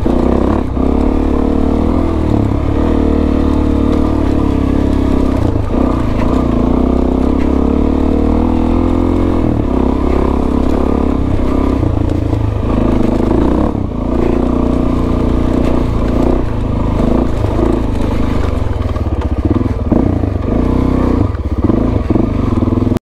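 Suzuki DRZ400S single-cylinder four-stroke engine running under way, its pitch rising and falling as the throttle changes, with scattered knocks and clatter from the bike. The sound cuts off abruptly near the end.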